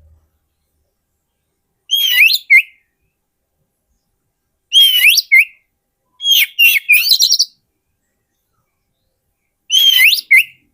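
Oriental magpie-robin (kacer) singing: four short phrases of quick, gliding, whistled notes a few seconds apart, with silence between. The longest phrase comes about six to seven seconds in.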